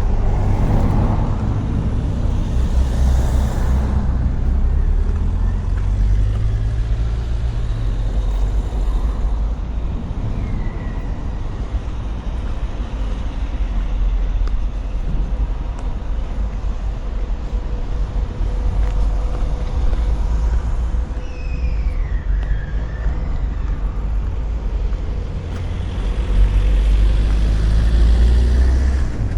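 Street traffic passing, a steady low rumble with louder passes near the start and near the end.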